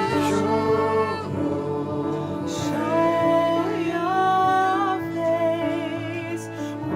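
Worship song: sung vocals holding long notes over a steady instrumental accompaniment.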